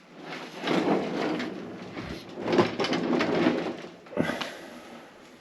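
Rubbing and scraping handling noises in two stretches, followed by a short knock about four seconds in.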